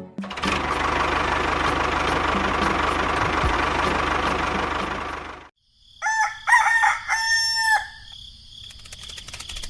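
A small electric motor runs steadily for about five seconds and cuts off suddenly, then a rooster crows loudly.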